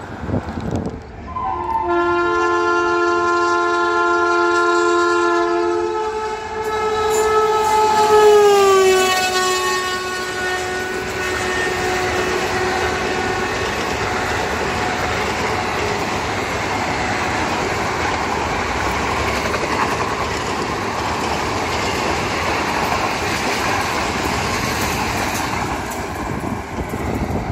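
WAP-7 electric locomotive hauling an express through a station at speed, sounding a long horn blast. The horn starts on two notes and then holds one, and its pitch drops about eight seconds in as the locomotive passes. After that comes the steady rush and wheel clatter of the coaches going by, which tails off near the end.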